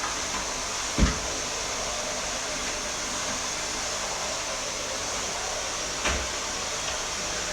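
Vacuum cleaner running steadily with a high whine, with two dull knocks, one about a second in and another near the end.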